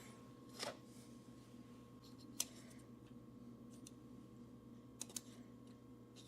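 A faint steady low hum with a few light, sharp clicks, from digital calipers being handled to measure a freshly turned pin.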